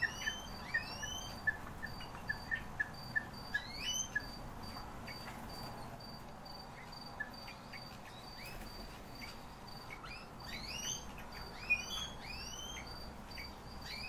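Cage birds calling: short, repeated upward-sweeping whistled calls, with a quick run of short chips over the first four seconds and a cluster of calls in the last few seconds. A faint high tone pulses evenly underneath throughout.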